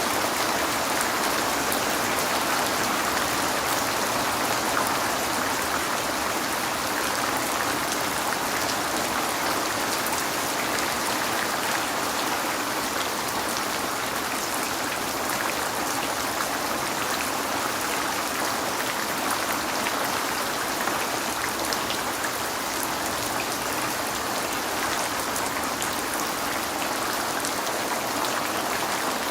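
Steady heavy rain falling, a dense even hiss with fine scattered drop ticks, as rain against a window.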